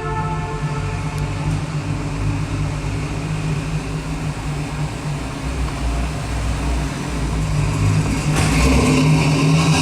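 1964 Buick Riviera's V8 engine idling with a steady low rumble, the last of a car horn tone fading out in the first second. It grows louder and fuller about eight seconds in.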